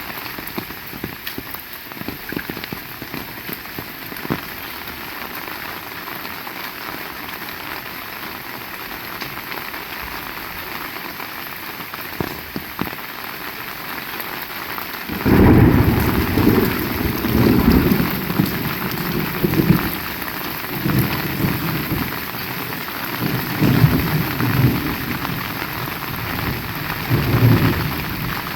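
Heavy rain falling steadily, with scattered louder drops. About halfway through, thunder breaks in suddenly and rolls on as a low rumble that swells and fades in several waves.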